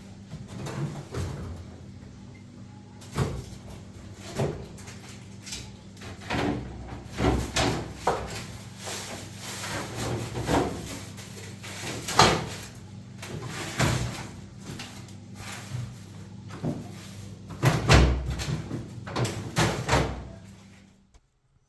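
A series of irregular knocks and clunks, like things being handled, shut or set down, over a steady low hum; the loudest knocks come about halfway through and again near the end.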